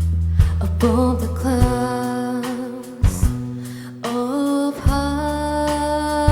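Live rock band playing: drums, bass guitar and electric guitar under a held melody line, with drum hits every second or so.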